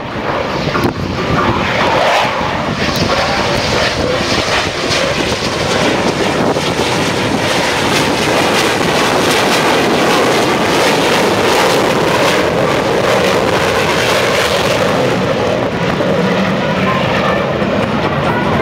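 Loud, steady jet roar of an F-15E Strike Eagle's engines during its flying display, with a rough, crackling edge through the middle seconds.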